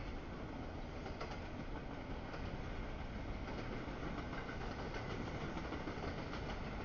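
Northbound CSX double-stack container train rolling past at speed: a steady rolling rumble of the cars, with scattered wheel clicks on the rails.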